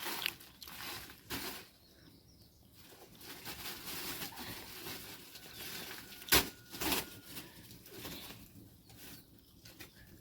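Intermittent rustling and scuffing noises, with one sharp knock about six and a half seconds in.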